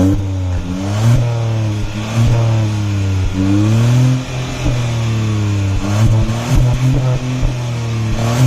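Exhaust note of a Hyundai Venue N-Line's 1.0-litre three-cylinder turbo petrol engine, revved repeatedly while standing, its pitch rising and falling with each blip of the throttle.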